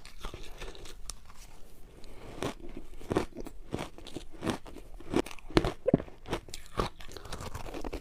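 Frozen matcha ice ball being bitten and chewed: a run of irregular, sharp crunches of hard ice, thickest about a third of the way in and again past the middle.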